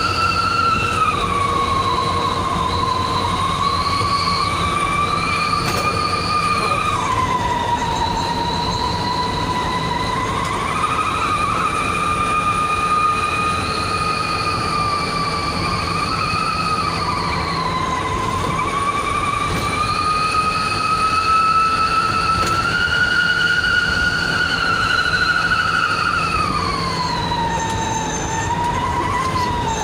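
Truck exhaust wolf whistle (knalpot serigala) howling continuously in one high whistling tone over the diesel engine's drone. Its pitch follows engine speed: it dips about a second in, drops around seven seconds in, climbs slowly in the second half and falls away at the end.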